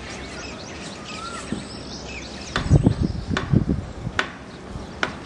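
Small birds chirping and calling over a steady background hiss. From about halfway through come a cluster of loud low thumps and a few sharp clicks.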